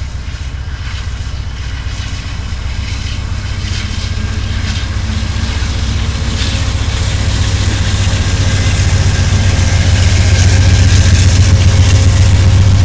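Amtrak P42 diesel locomotive running with a low, steady engine drone that grows steadily louder as it approaches.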